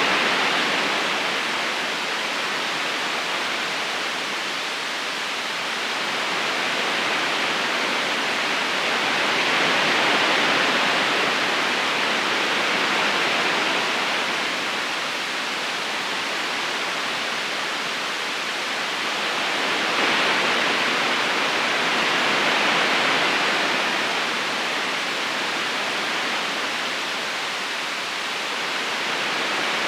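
River current rushing steadily over stones, a dense even hiss of flowing water that swells and eases slowly every ten seconds or so.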